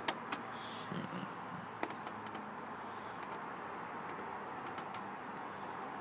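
Miele Novo washing machine's controls clicking a few times as the programme is stepped on, a quick cluster of clicks at the start and another about two seconds in, over a steady low hum.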